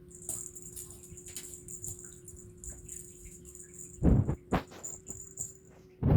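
Rustling, crinkling swish of a cat wand toy being flicked about, with three loud thumps between about four and six seconds in.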